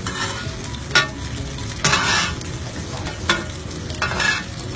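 Hoi tod batter and shellfish sizzling in oil on a hot pan, with a metal spatula scraping and turning it. Sharp taps of the spatula on the pan come about a second in and again past three seconds, and louder scrapes come around two and four seconds in.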